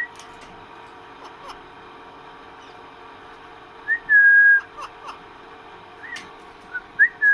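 A pet parrot whistling: a short rising note leading into a held clear whistle about four seconds in, and the same pattern again near the end, with quiet between.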